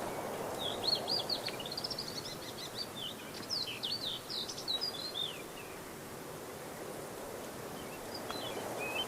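A songbird singing a quick, varied run of high chirps and warbled notes for about five seconds, then a few fainter calls near the end, over a faint steady background hiss.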